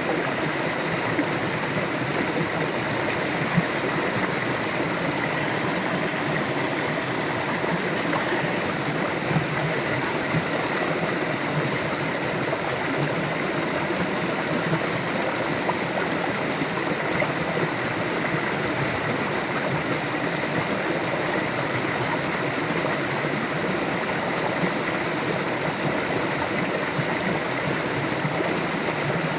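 River water flowing and babbling steadily, a constant rushing with small splashes and gurgles.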